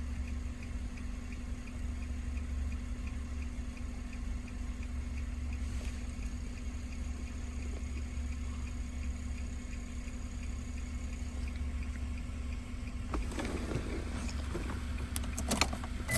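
A steady low hum with a faint, regular ticking over it. Several clicks and knocks come in the last few seconds.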